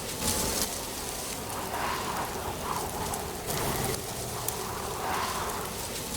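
Wind blowing through dry autumn leaves: a steady rustling hiss that swells every second or two.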